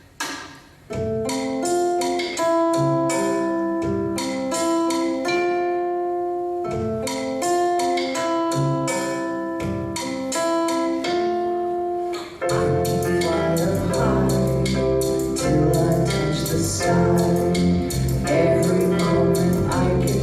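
A live band starting a song: chords with a drum beat come in about a second in, and the bass and full band join at about twelve seconds, making it louder and fuller.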